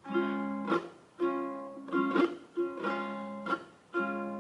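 Ukulele strumming a chord pattern, each strum ringing on, slowed down so it plays slower and lower in pitch.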